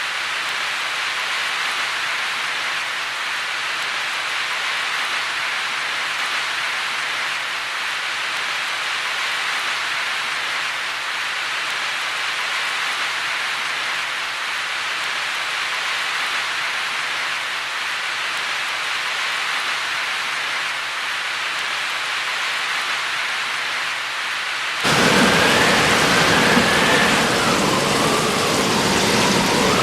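Heavy rain falling as a steady, even hiss. About 25 seconds in it cuts suddenly to louder rain with a deep rumble of thunder underneath.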